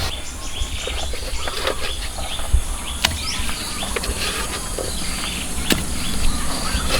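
Birds chirping with a few sharp knocks a few seconds apart, over a steady low rumble.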